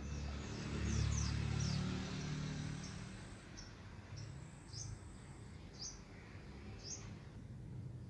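Small birds chirping: a quick run of short, falling chirps in the first two seconds, then single chirps about once a second. Under them a low rumble swells in the first few seconds and then fades.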